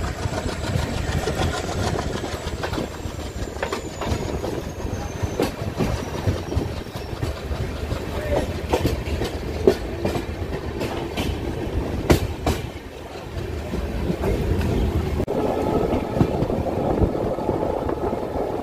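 Passenger train running along the track at speed: a steady rumble of wheels on rails, with a few sharp clicks in the middle.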